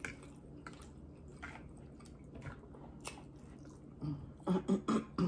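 Close chewing and wet mouth sounds of someone eating ramen noodles, with scattered soft clicks. Near the end comes a cluster of louder short sounds with a low voiced tone.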